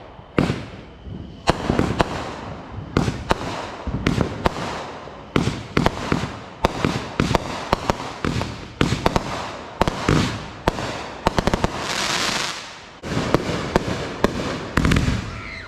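Consumer fireworks going off in rapid succession: dense, irregular sharp bangs and pops throughout. About three-quarters of the way in there is a hissing spell lasting about a second, and near the end comes a deeper boom.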